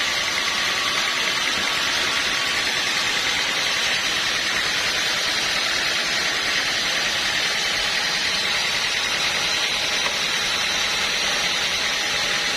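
Sawmill machinery running steadily: an even mechanical noise with a faint, steady high whine.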